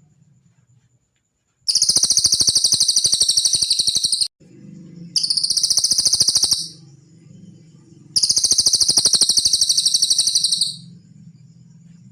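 Cililin songbird singing three loud, very fast, high-pitched trills, the first and last about two and a half seconds long and a shorter one between them.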